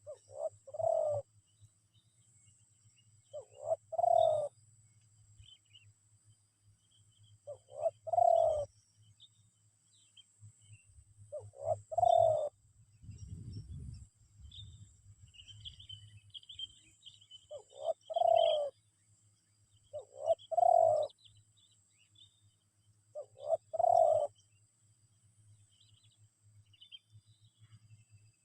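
Spotted dove cooing: seven short phrases of a few notes each, repeated every few seconds with a longer pause in the middle.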